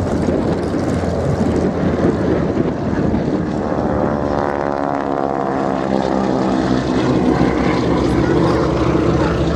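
Radial engines of two Boeing Stearman biplanes flying in formation, droning as they pass; the engine note shifts in pitch about halfway through as they go by.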